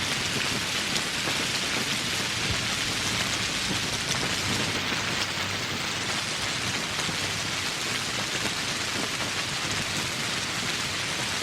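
Steady, heavy tropical rain falling on surfaces, a dense even hiss with many individual drops pattering through it.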